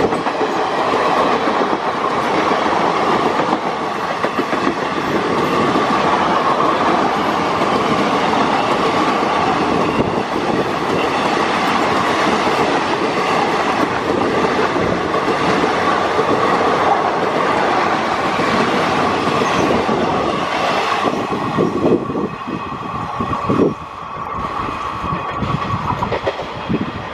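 Indian Railways express coaches passing close by at speed on the adjacent track: steady rumble and rattle of wheels on rail, with a steady high ringing note over it. Near the end a run of loud clacks comes as the last coaches pass, and the sound falls away.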